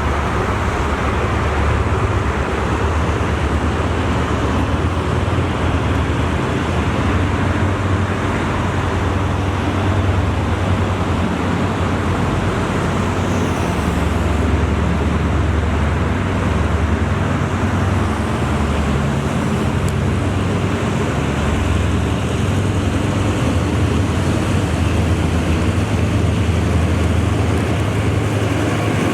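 Hitachi diesel-electric locomotive running steadily, a constant deep engine drone under a dense rumble that does not change in level.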